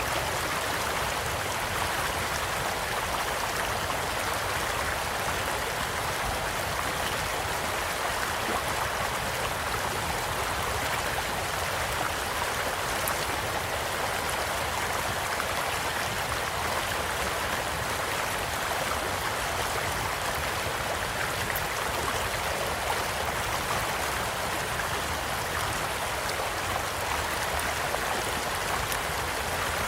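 A small stream flowing steadily. A campfire gives a couple of faint crackles now and then.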